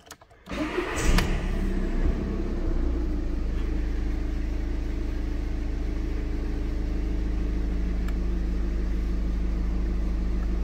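VW Scirocco diesel engine starting after an oil change: a short crank, catching with a brief rev about a second in, then settling into a steady idle.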